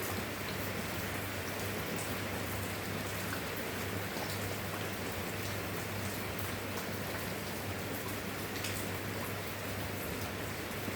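Steady rain: an even hiss with individual drops ticking here and there.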